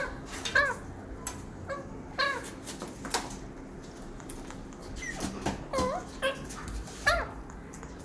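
A caged bird giving short, bending calls, repeated every second or two, with a few sharp clicks between them.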